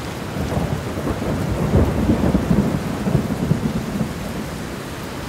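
Thunderstorm sound effect: a rumbling, crackling rush like rolling thunder over a steady hiss of rain, loudest about two to three seconds in.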